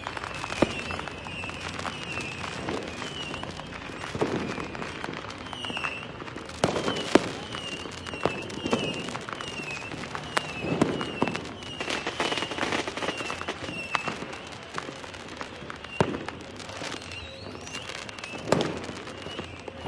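Fireworks going off in a dense string of pops and crackles, with single louder bangs scattered through, the sharpest about seven seconds in and again near the end.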